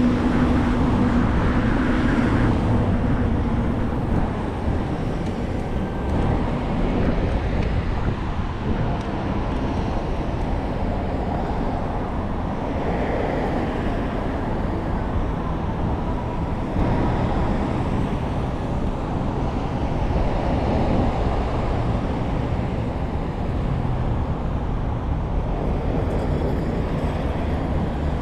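Steady city traffic and road noise heard from a moving bicycle, with a vehicle horn that stops about a second in.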